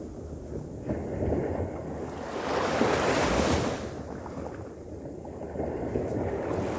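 Ocean surf: waves breaking and washing up the shore in swells, loudest about three seconds in, easing, then building again near the end, with wind buffeting the microphone.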